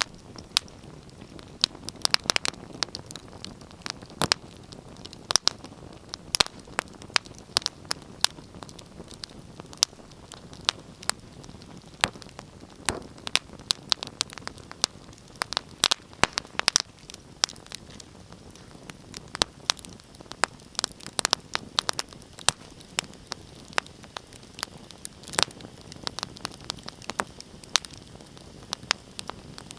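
Wood fire crackling: a steady low hiss of flames with sharp, irregular pops and snaps, several a second.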